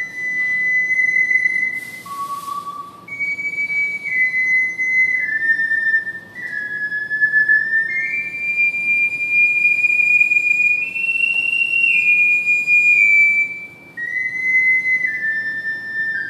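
Triple ocarina playing a slow solo melody in clear, almost pure held notes, with short breaks for breath between phrases.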